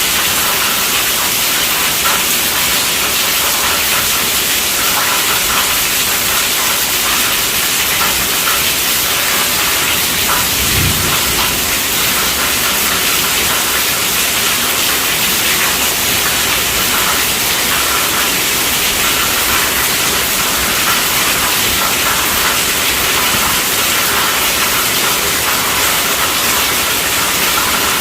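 Heavy rain drumming steadily on a tent roof, a dense, even hiss of drops, with one brief low bump about eleven seconds in.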